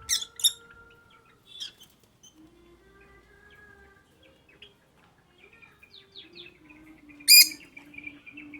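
Pet lovebirds chirping: a couple of sharp chirps at the start and a louder one near the end, over faint steady tones.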